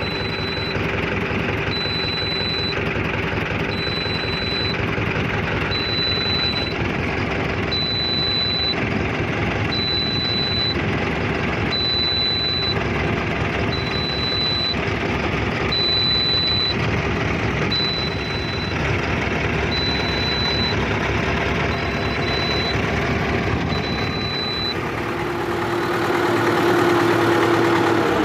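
HMT 5911 tractor's diesel engine running steadily. Over it a high-pitched beep repeats about once every 1.3 seconds and stops near the end, when the engine gets a little louder.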